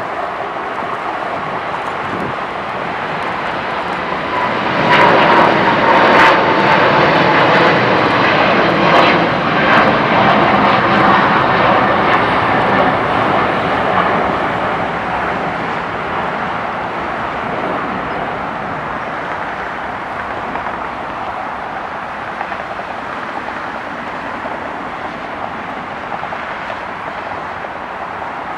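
Boeing 777-300ER's twin GE90-115B turbofan engines at takeoff thrust as the jet departs. The noise swells about five seconds in, with a whine that falls in pitch as it passes and a few sharp crackles at its loudest, then fades into a long dwindling rumble.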